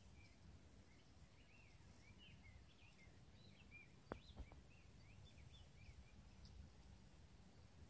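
Faint songbird singing, a string of short warbling high notes that trails off after about six seconds, with two sharp clicks a little past the middle.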